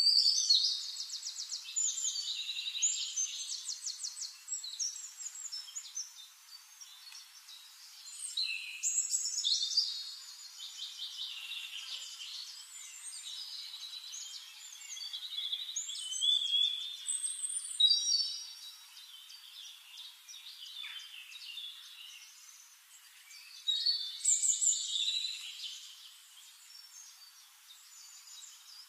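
Small birds singing: high, quick chirps and rapid trills that come in several bursts, with quieter chirping between them.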